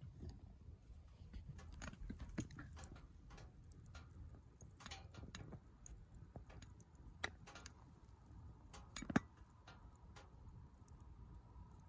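Wood fire crackling in a fire-pit stand: faint, irregular snaps and pops over a low rumble, with one sharper pop about nine seconds in.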